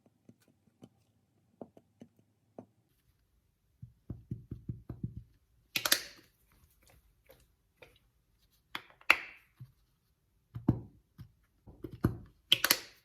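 Kitchen prep handling sounds: scattered soft taps, then a quick run of low thuds about four seconds in, and a few sharper clatters of utensils and dishes, the loudest near the end.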